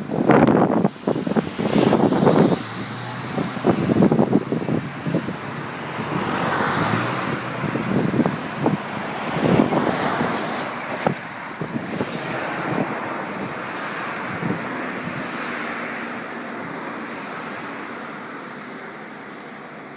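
Strong wind ahead of an approaching typhoon buffeting the microphone in loud, irregular gusts for the first few seconds, then settling into a steadier rush that slowly eases.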